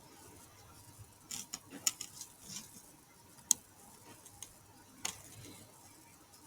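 Faint, scattered clicks of a computer mouse and keyboard: a run of quick clicks about a second in, a sharp single click in the middle, and another about five seconds in.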